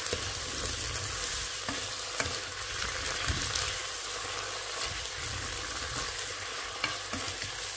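Sliced mushrooms and fried minced meat sizzling in a granite-coated pot while a spatula stirs them, with a few light scrapes against the pot.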